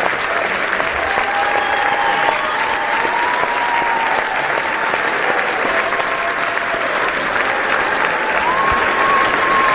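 An audience applauding steadily: many hands clapping in a dense, even patter, with a few voices heard over the clapping.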